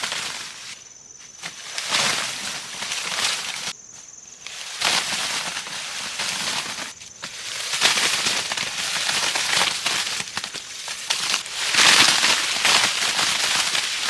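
Dry plant material rustling and crunching in irregular bursts, like leaves, husks or stalks being handled or broken, with short pauses between bursts.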